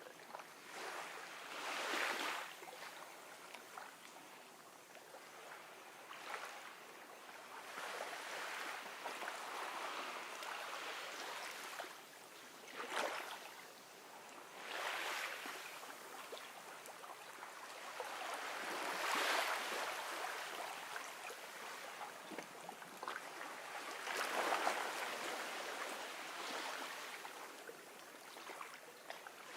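Small ocean waves breaking gently and washing up a beach. Each one swells into a soft, hissing surge and falls away, arriving every few seconds at uneven intervals, some a little louder than others.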